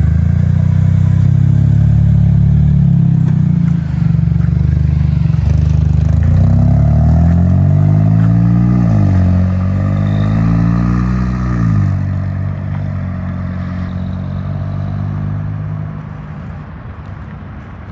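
A car engine running loudly and steadily. About halfway through, the revs rise and fall twice, and the sound then fades away over the last few seconds.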